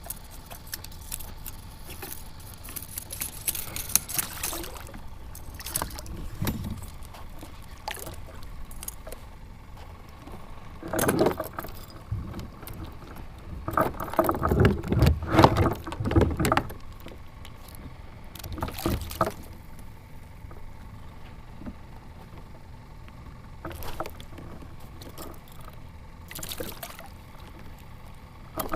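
Knocks, rattles and splashes of a freshly caught Spanish mackerel being handled and unhooked on a kayak, loudest about 11 seconds in and again from about 14 to 16 seconds.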